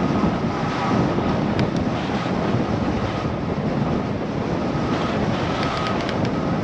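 Steady rushing wind noise on the microphone of a moving bicycle, with a few faint clicks about six seconds in.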